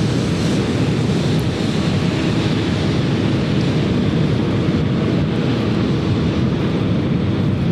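Jet noise from a Bombardier CRJ regional jet's turbofan engines, a steady rushing roar, mixed with wind buffeting the microphone.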